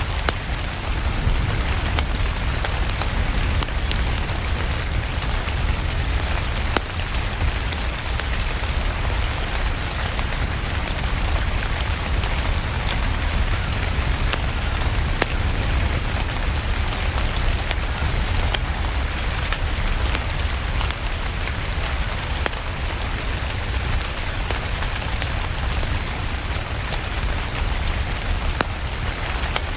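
Steady rain falling, with a constant deep low rumble underneath and scattered sharp ticks throughout.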